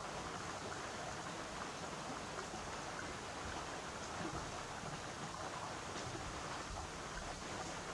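Steady rain: an even hiss of falling drops, with a few faint ticks of single drops.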